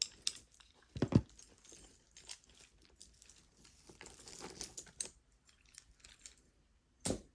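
Jewelry pieces being handled and set down: scattered small clicks and rustling, with a soft thump about a second in and another near the end.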